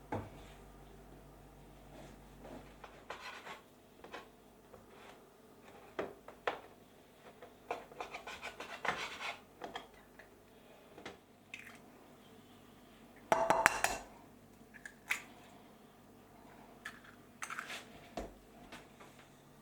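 Dishes and cutlery clinking and clattering, with scattered knocks and scrapes and one louder clatter about two-thirds of the way through.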